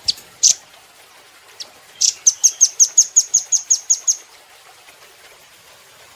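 Velvet-fronted nuthatch calling: two sharp, high single notes, then a fast, high trill of about a dozen notes, roughly six a second, lasting about two seconds.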